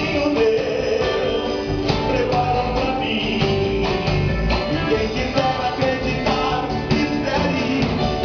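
Live band playing a rock-style gospel song: guitars, bass and drums keeping a steady beat.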